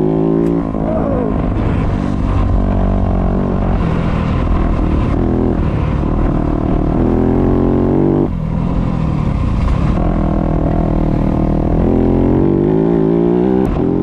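Dirt bike engine revving up and down as it is ridden along a trail. It climbs in pitch several times, with short throttle drops about half a second in and again around eight seconds in.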